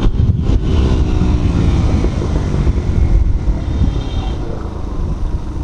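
Motorcycle engine running under way, heard through heavy wind buffeting on the microphone, with its pitch shifting a little as the throttle changes.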